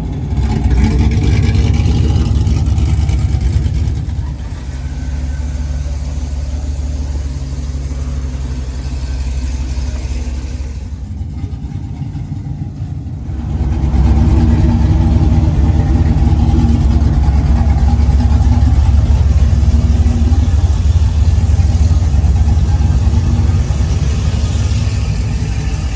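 Truck engine and exhaust running under load while driving. It swells loud about a second in, eases off after about four seconds, then comes back up loud and steady from about fourteen seconds in.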